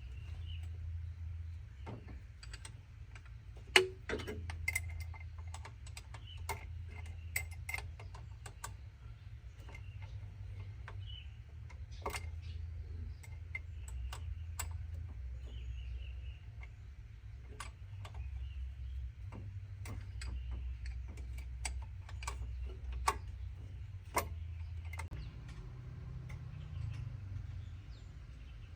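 Irregular light clicks and taps, with one sharper knock about four seconds in, over a low steady hum.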